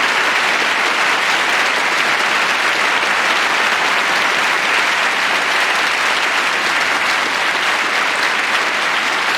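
Concert audience applauding steadily after a jazz number: a dense, even clapping.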